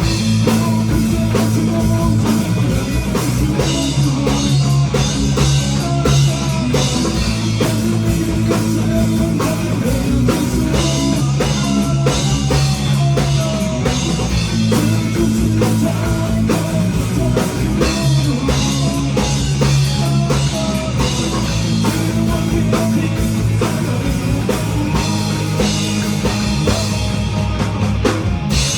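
A rock band playing live, with drum kit and electric guitar, loud and steady.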